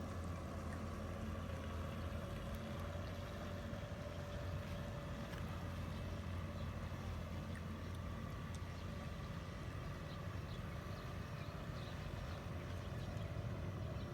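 A motor running steadily: a low rumble with a faint, even hum above it.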